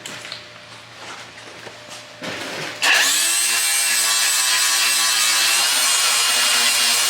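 A handheld electric power tool spins up about three seconds in and then runs loud and steady with a whine, working the truck's sheet metal.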